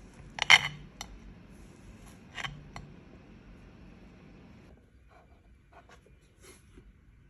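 Kitchenware being handled: a sharp clatter about half a second in, a second smaller one about two and a half seconds in, then a few light clicks and taps. A low background hiss stops about two-thirds of the way through.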